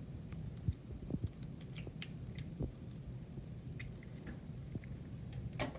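Light, irregular clicks and taps of a spoon working a thick dough mixture in a bowl.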